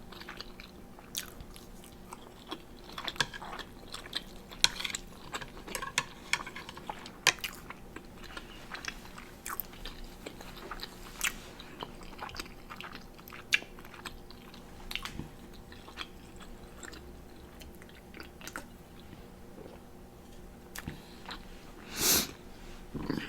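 Close-miked mouth sounds of a person eating spicy instant noodles: quiet, irregular chewing with wet smacks and clicks. A louder noise comes near the end.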